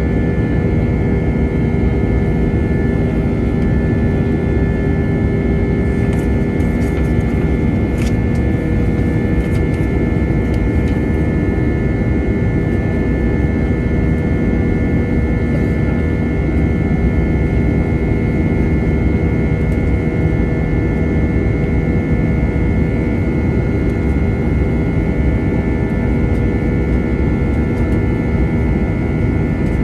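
Airbus A320's twin IAE V2527-A5 turbofan engines running steadily in flight, heard inside the passenger cabin: a constant dense engine noise with steady whining tones over it. There is a faint click about eight seconds in.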